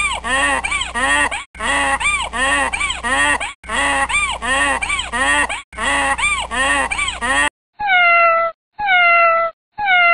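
A cat meowing over and over: quick rising-and-falling meows repeated in four bursts, then from about eight seconds in, five separate meows that each fall in pitch.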